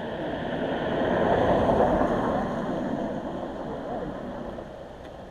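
A vehicle passing by on the road, its noise swelling to a peak about two seconds in and then fading away.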